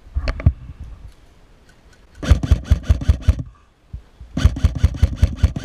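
Lancer Tactical LT-15 airsoft electric rifle firing two rapid strings of shots, about seven a second, each lasting about a second, after a few single shots at the start.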